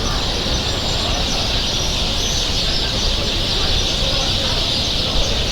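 Many birds chirping in a steady, dense chorus over a low street rumble.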